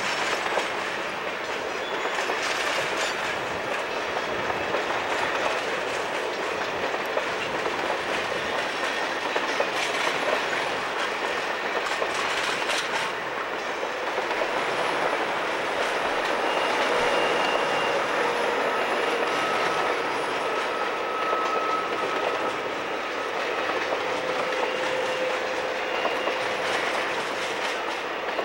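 Streamlined stainless-steel passenger cars of a long train rolling past close by, steel wheels clacking over the rail joints in a steady clickety-clack. In the second half a thin, faint squeal of the wheels comes in over the rumble.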